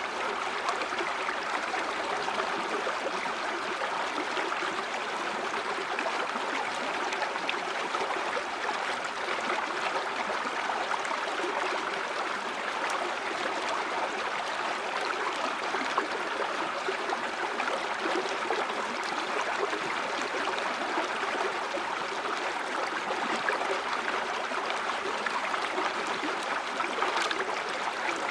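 A river or stream flowing steadily, its water gurgling and splashing in an even rush.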